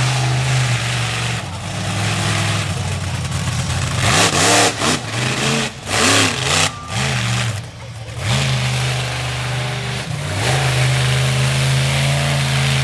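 Monster truck engine running loudly and steadily, then revved up and down several times in quick blips about four seconds in before settling back to a steady run.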